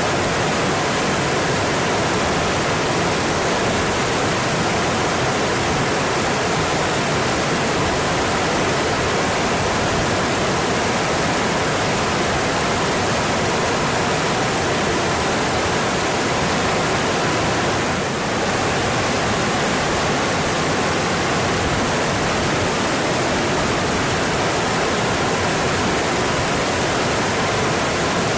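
Mountain stream rushing over rocks: a steady, even roar of flowing water.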